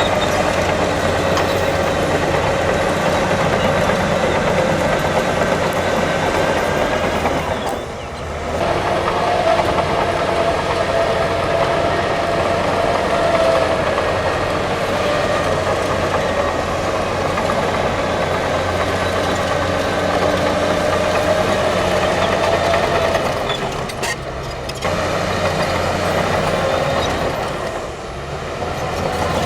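Diesel engines of heavy earthmoving machinery, bulldozers and dump trucks, running steadily. The level dips briefly three times.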